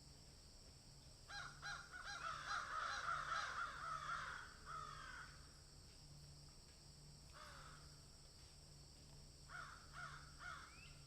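Birds calling: a quick series of repeated calls from about a second in until about five seconds, then a single call, and a short run of calls near the end.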